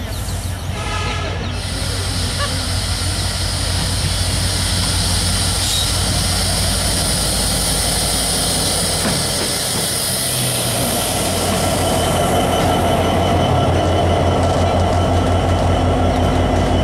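Diesel-electric locomotive hauling a passenger train past at close range, its engine throbbing steadily, with a short horn sounding about a second in. The noise builds as the locomotive draws near and passes, then the coaches roll by on the rails.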